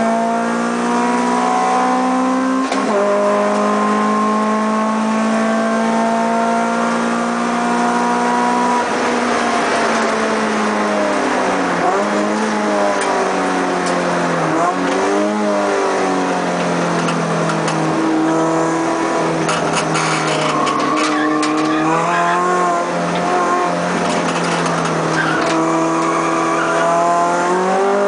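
Honda Integra DC2's four-cylinder engine under hard track driving, heard inside the cabin. It holds high revs for the first several seconds, then drops with a few quick rev blips on downshifts around the middle, runs lower for a while, and climbs again near the end.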